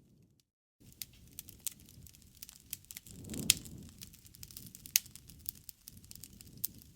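Wood campfire crackling with many sharp pops and snaps over a low rush of flame. The two loudest snaps come about three and a half and five seconds in, and the flames swell briefly around three seconds in. The sound cuts out completely for a moment just after the start.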